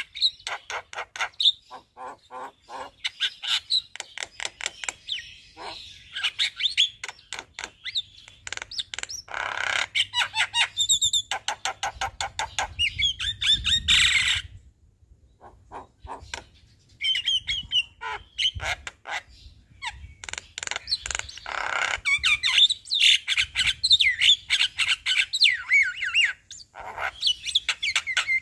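Javan myna singing at full tilt, working through its varied repertoire: fast runs of harsh clicking chatter and squawks mixed with short whistled notes, with a brief pause about halfway through.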